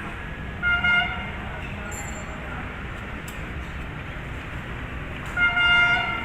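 A horn sounds twice, about five seconds apart; the first blast is short and briefly broken, the second a little longer. Under it runs a steady low rumble.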